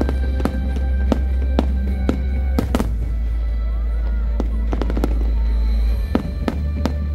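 An aerial fireworks display, with shells bursting in quick succession as sharp bangs about every half second, over loud music with a heavy bass.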